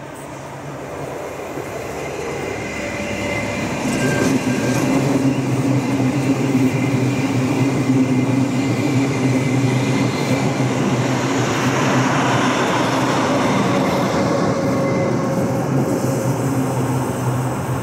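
A Rhaetian Railway electric passenger train passing close by, with a steady low hum and the rumble of wheels on rail. It grows louder over the first few seconds, stays loud, then fades near the end. A faint high squeal comes a few seconds in.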